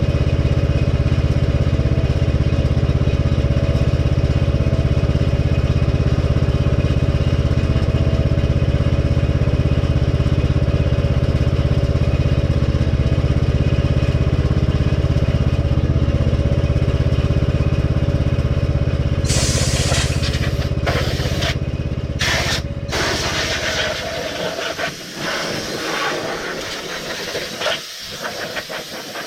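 A small engine running steadily, then dying away near the end. About two-thirds of the way in, a loud hiss like air or spray starts over it, broken by a few short gaps, and carries on after the engine stops.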